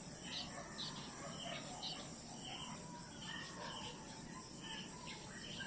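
Nature ambience of insects: short chirps repeating about twice a second over a steady high-pitched insect drone, with occasional fainter bird notes.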